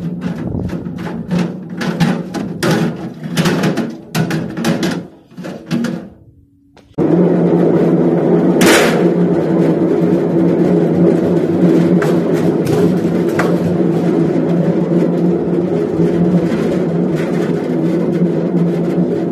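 BEKO washing machine drum turning with objects inside knocking and banging irregularly against it. About six seconds in the noise drops to near silence for a moment, then the machine starts a loud, steady, humming run.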